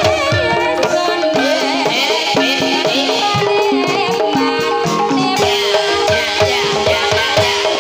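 Traditional Javanese music accompanying a kuda kepang (ebeg) dance: repeated hand-drum strokes that fall in pitch, over ringing pitched gamelan-style tones.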